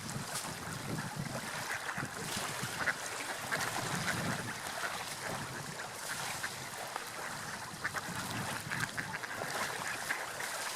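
Seagulls calling repeatedly in short calls over a steady noise of sea waves and wind.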